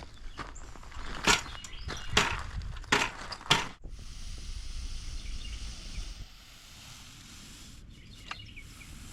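Stiff broom dragged across setting concrete for a broom finish: four brushing strokes in the first four seconds, then quieter.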